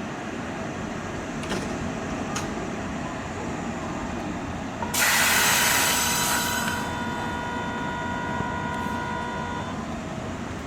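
Kintetsu Minami-Osaka Line train at the station, with a steady rumble. About five seconds in, a sudden loud hiss lasts about two seconds, and a steady whine of several tones carries on until near the end.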